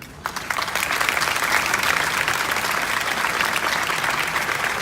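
Audience applauding: many hands clapping, starting abruptly and holding steady.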